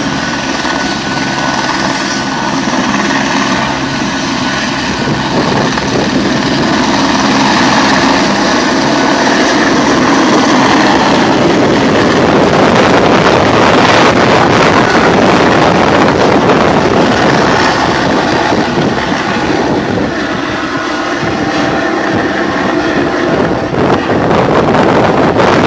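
Firefighting helicopter's turbine and rotor running loud at takeoff, a dense steady noise that grows louder about ten seconds in.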